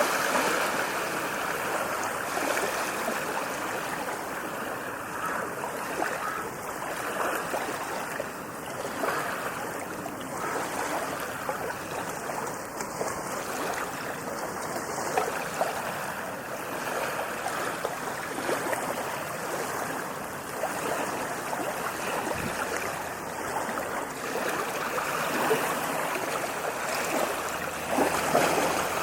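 Ocean surf on a beach: a continuous wash of breaking waves, swelling louder as a wave breaks just after the start and again near the end.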